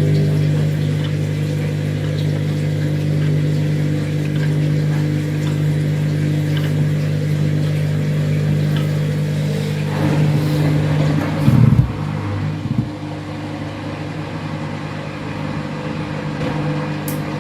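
Washing machine running after draining, with a steady motor hum; the hum wavers and dips briefly about twelve seconds in, then settles again.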